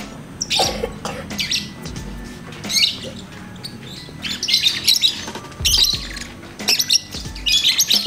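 Lovebird chattering in repeated shrill bursts of high notes, seven or so short outbursts, the longest about a second.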